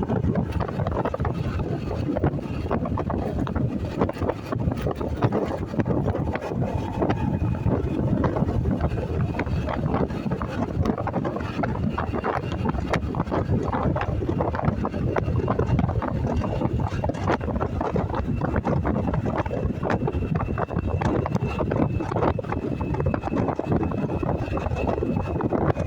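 Wind buffeting the microphone of a moving motorcycle, with the bike's engine and road noise running steadily beneath.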